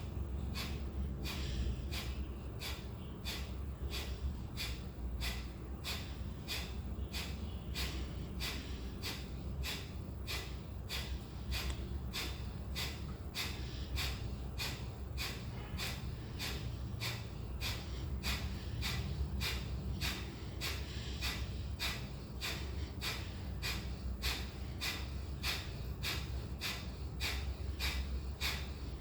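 Kapalbhati pranayama: short, forceful exhalations snorted out through the nose, each pumped by a sharp inward pull of the abdomen, with the inhalations passive and barely heard. They repeat in an even, fast rhythm of a little under two a second.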